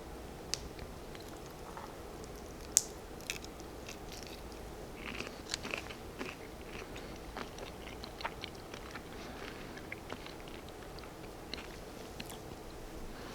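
Close-miked eating: a person chewing and biting into food, with scattered sharp crunches and wet mouth clicks, the loudest crunch about three seconds in.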